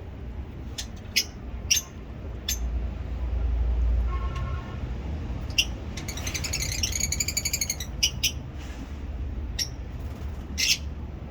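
Caged aviary birds chirping in short sharp calls scattered throughout, with a rapid chattering trill about six seconds in that lasts roughly two seconds. A low rumble runs underneath, strongest a few seconds in.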